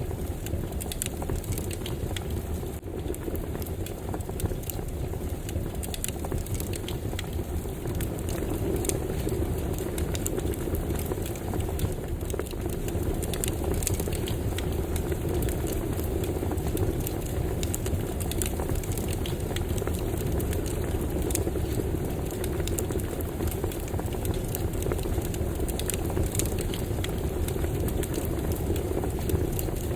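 Campfire burning, a steady low rush of flames under frequent sharp crackles and pops scattered throughout.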